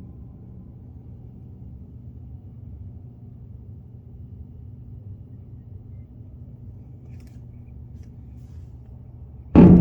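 Steady low rumble of outdoor background noise. About nine and a half seconds in, loud music with heavy booming thuds starts abruptly.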